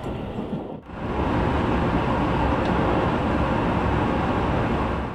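Steady running noise of an E653 series electric express train, heard from inside the passenger car: an even rumble and rush of wheels on rail. It drops out briefly about a second in, then holds steady and louder.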